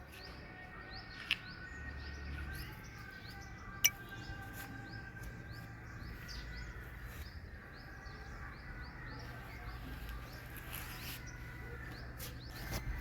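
Small birds chirping outdoors, many short quick chirps repeating over a low steady hum, with two sharp clicks, one about a second in and one about four seconds in.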